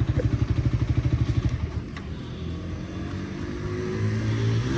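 Motorcycle engine running with a strong pulsing beat, then smoothing out about one and a half seconds in, its pitch rising slowly.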